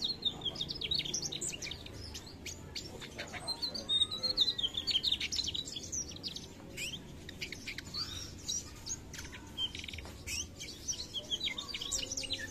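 Mugimaki flycatcher in full song: a fast, nearly continuous run of high chirps, trills and short whistled notes, with only brief pauses.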